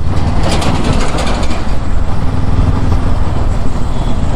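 Honda CB500X's parallel-twin engine running on the move, under a steady low rumble of wind and road noise on the microphone.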